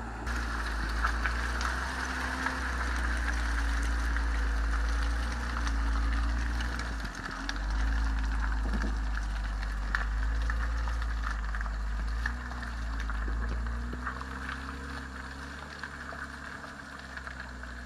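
Jeep Wrangler JL Rubicon's engine running at low revs while crawling up a rocky trail, rising and easing in swells, with scattered light clicks and knocks from the vehicle.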